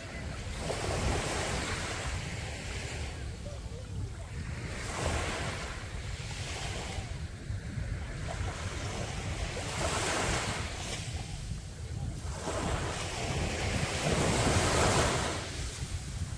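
Sea waves breaking on a beach, the wash swelling and fading in repeated surges every few seconds, the loudest near the end. Wind rumbles on the microphone underneath.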